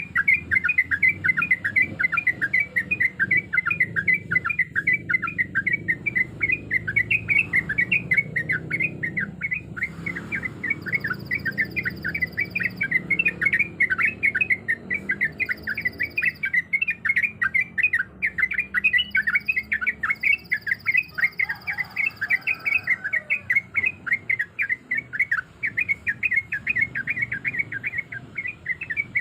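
Yellow-vented bulbul (trucuk) singing non-stop, a fast unbroken chatter of short, sharp notes repeated many times a second.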